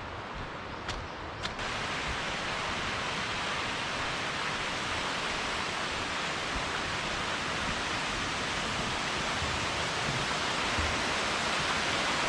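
Rushing water of a mountain valley stream, a steady hiss that comes up suddenly about one and a half seconds in and grows a little louder toward the end. A few faint clicks come before it rises.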